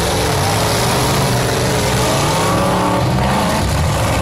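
Several demolition derby car engines running and revving at once, their pitches rising and falling as the cars accelerate and spin.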